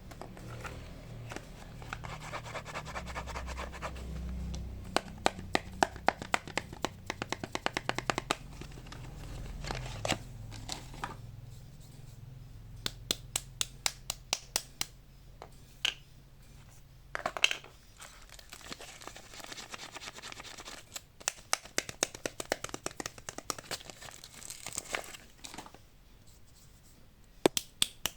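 Soap bars being unwrapped by hand: wrappers crinkling and tearing, with many sharp clicks and taps as the packaging is handled, some in quick runs.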